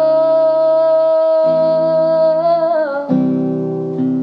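A woman sings one long held note over acoustic guitar chords. The note ends about three seconds in, leaving the guitar strumming alone.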